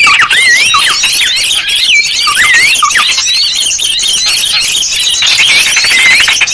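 Dense chorus of small songbirds calling, many chirps and whistled notes sliding up and down and overlapping, with a fast rattling trill about five seconds in. It is a bird-lure track (pikat) made to draw small birds in.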